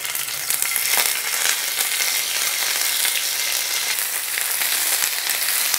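Paneer cubes frying in hot mustard oil in a non-stick pan: a steady sizzle as the cubes are slid in from a plate.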